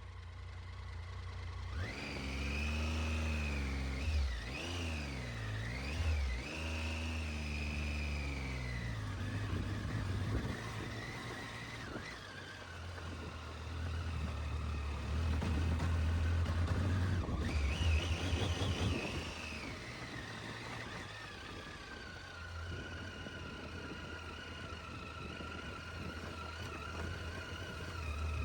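Motorcycle engine pulling away and riding on, its pitch rising and falling with the throttle and gear changes for several seconds. It rises again about two-thirds of the way through, then settles into a steadier run.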